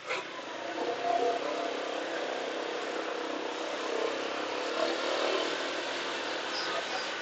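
Motorcycle underway: engine and road noise, growing louder about a second in after a short click at the start.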